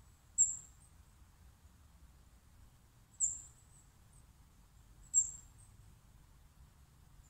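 A small bird calling with short, very high, thin chirps, three of them a couple of seconds apart, over a faint low outdoor rumble.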